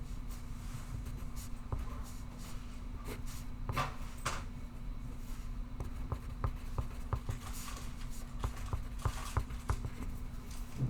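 Pencil writing on paper: quick, uneven scratchy strokes and light taps, a few of them longer, over a steady low hum.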